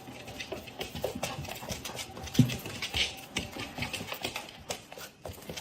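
A dog's claws clicking and pattering irregularly on a hard floor, with one louder thump about two and a half seconds in.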